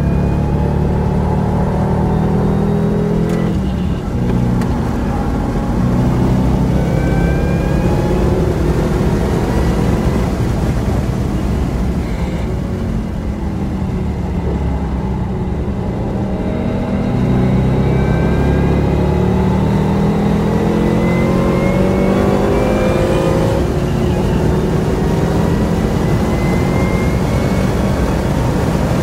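Holden Commodore SSV V8 heard from inside the cabin on a racing lap, accelerating hard with its engine note rising through the revs. It eases off for a few seconds around midway, then pulls hard again down the straight at high rpm.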